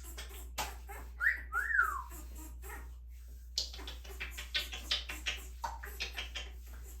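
African grey parrot whistling: a short rising whistle about a second in, then one that rises and falls. Later a run of quick, sharp clicks follows.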